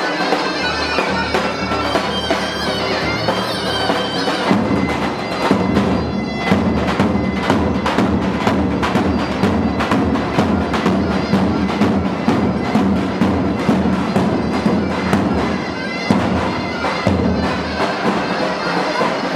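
Davul and zurna playing folk dance music: a shrill reed melody over steady drum beats, growing fuller about four and a half seconds in.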